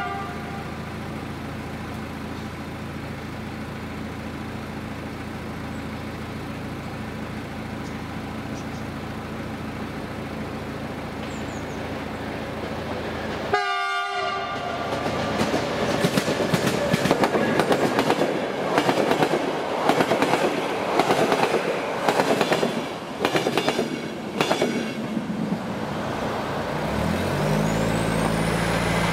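A train's horn gives one short blast about halfway in, then the train passes over the level crossing, its wheels clattering over the rail joints for about ten seconds. Near the end the clatter dies away and a road vehicle's engine starts running.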